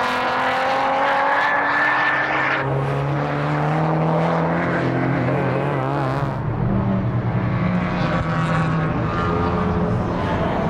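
Race car engine under hard acceleration, its note climbing for about two and a half seconds, then dropping abruptly on a gear change to a lower, steadier note.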